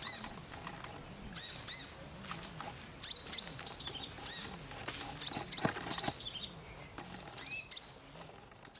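A sunbird chirping: repeated high, sharp chirps about every half second to second, with a few short falling trills.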